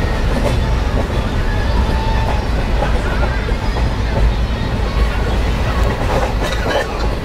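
Steady low rumble and rattle of a moving passenger train heard from inside a crowded carriage, with passengers' voices murmuring underneath.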